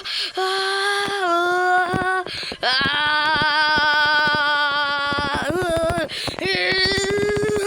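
A high voice singing long held notes without recognisable words, with short breaks between them; the longest note, in the middle, wavers.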